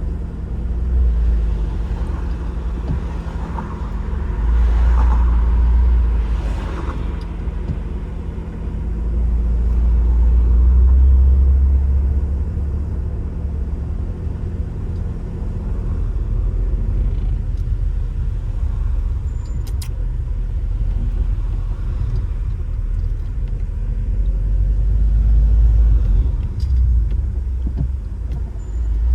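Car driving: a steady low rumble of engine and road noise. A constant engine hum fades about halfway through, and the low rumble swells and eases a few times.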